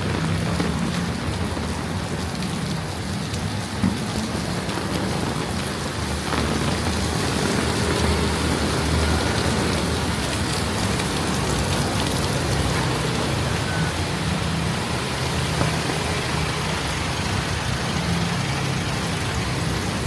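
Heavy rain falling in a steady hiss, with the low hum of vehicle engines underneath.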